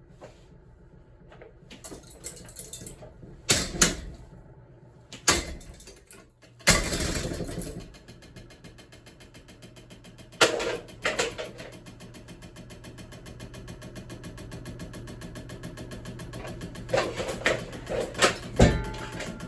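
A ceiling fan running under power with a steady hum and an even, fast rattle. Loud crashes and clattering break in several times as parts of it smash and fly apart.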